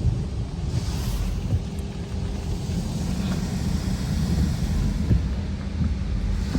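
Automatic car wash running over the car, heard from inside the cabin: water spray hitting the car over a steady low rumble, the spray hiss swelling briefly about a second in.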